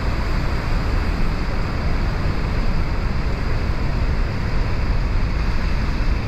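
Steady roar of Niagara Falls, a huge volume of water plunging over the crest, heard as an even, unbroken rumble.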